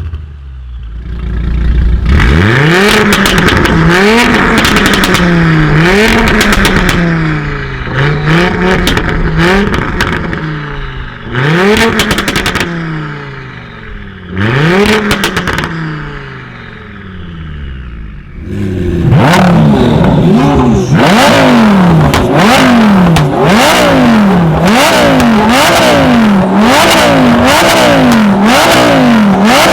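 Tuned car's engine revved hard, over and over, with exhaust pops and crackles. It gives a few single blips midway, then a fast run of rev blips about once a second near the end.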